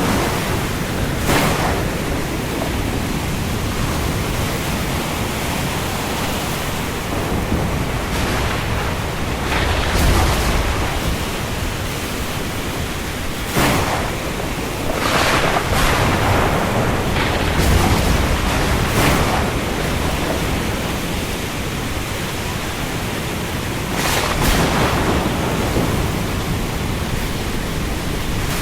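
Heavy rain at sea: a steady loud hiss, with short louder surges of splashing or gusting every few seconds.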